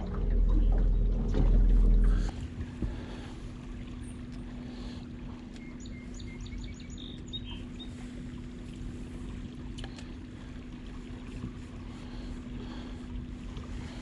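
Boat motor running with a low drone that cuts off about two seconds in. After it, a steady hum from the boat continues over the rush of fast river water, with a brief run of quick high chirps partway through.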